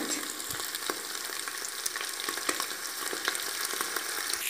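Crushed garlic, onions and mutton sizzling steadily as they fry in mustard oil in a pressure cooker, with a few light clicks scattered through.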